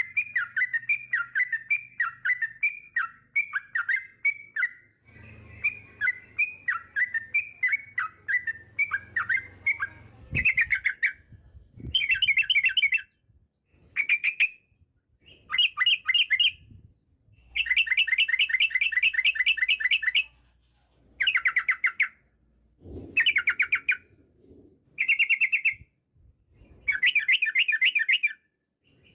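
Yellow-vented bulbul singing: first a quick string of short downslurred whistled notes, then, from about ten seconds in, bursts of rapid chattering trills, each a second or two long, with short pauses between them.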